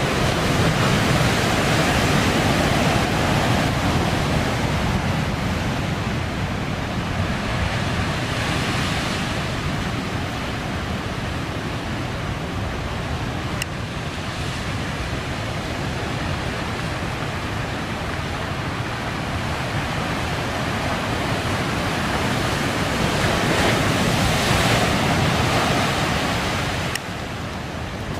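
Heavy typhoon surf: a continuous rush of breaking waves that swells louder every few seconds as big sets come in, with wind on the microphone.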